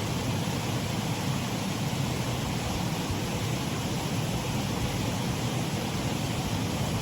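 Water pouring over a shallow waterfall in a stream, a steady, unbroken rush.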